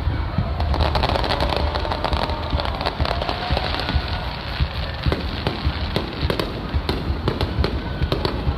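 Aerial fireworks display: a dense barrage of low booms with many rapid crackling reports, the crackles coming thicker toward the end.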